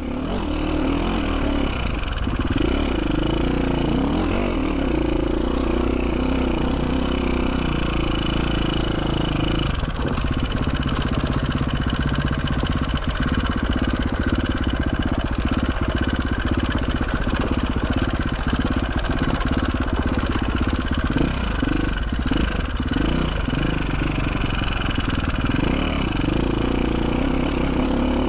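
KTM 450 SX-F's single-cylinder four-stroke engine running under way as the dirt bike is ridden along a trail. About ten seconds in, the engine note changes and its firing pulses become more distinct.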